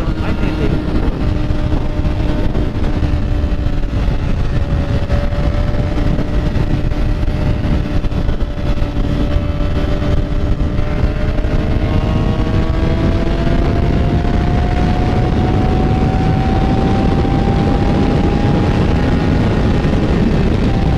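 Motorcycle engine running steadily while riding, its pitch dipping a little and then rising slowly through the second half, over a dense low rumble.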